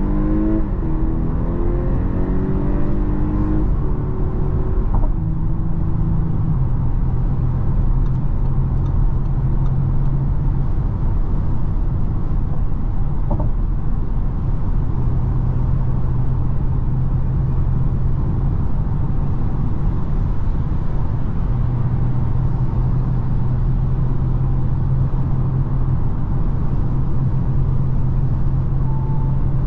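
Audi A5 Sportback 45 TFSI's 2.0-litre turbocharged four-cylinder engine, heard from inside the cabin, accelerating hard from a standstill to 100 km/h. Its pitch rises and drops back several times in the first few seconds as it shifts up. It then settles into a steady low engine drone under tyre and wind noise at motorway speed.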